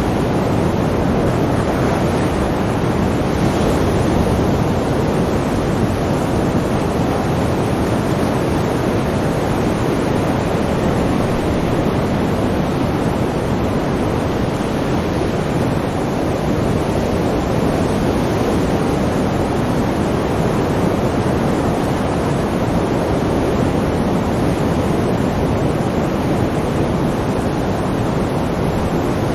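Sea surf: a steady, even rushing of waves with no distinct breaking surges.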